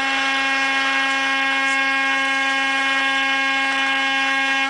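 A vehicle horn held down in one long, steady, buzzing blast that cuts off suddenly at the end.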